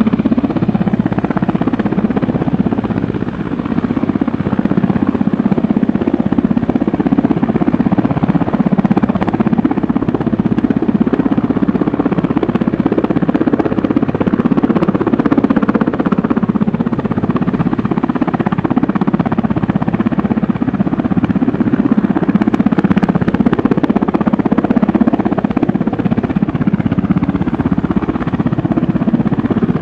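A loud, steady engine noise that runs on without a break.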